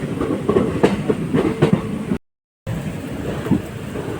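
Train running, with clickety-clack of ICF passenger coach wheels knocking over rail joints. The sound cuts out completely for about half a second midway.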